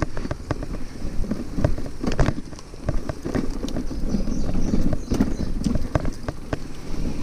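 Bicycle jolting along a rough dirt trail: irregular knocks and rattles of the bike and its gear over a steady low rumble of tyres on the ground, easing briefly about two and a half seconds in.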